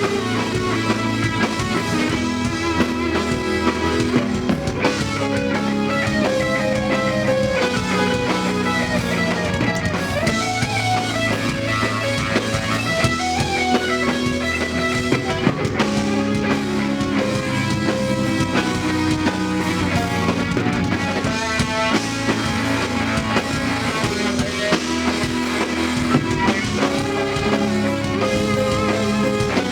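Live band playing a song, loud and steady, with a beat running throughout.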